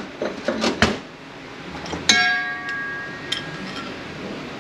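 Metal transmission parts clinking together, then a sharp metal clank about two seconds in as a part is struck or set down, leaving it ringing in several clear tones that fade over about a second and a half.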